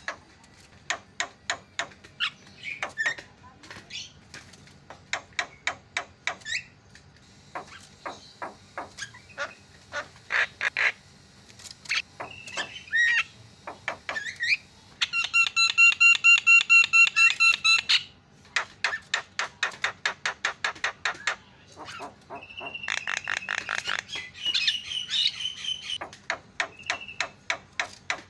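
Javan myna (jalak kebo) singing: runs of rapid dry clicks and chatter mixed with short whistled notes. About halfway through comes a loud, harsh, buzzing call of about three seconds, and a shorter one follows a few seconds later.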